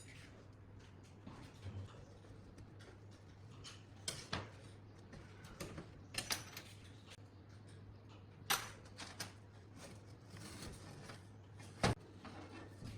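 Scattered clicks, clinks and knocks as parts of a rusty metal desk fan and hand tools are handled, with the sharpest knock near the end. A faint steady hum runs underneath.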